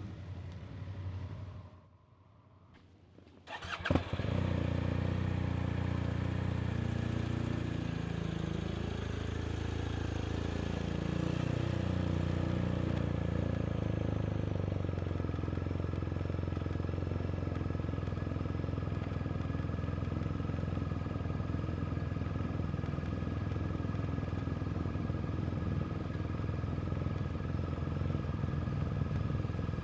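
BMW R 1250 RT's boxer twin starting with a click about four seconds in, after a brief quiet. It then runs steadily, its revs rising and falling for a few seconds before settling.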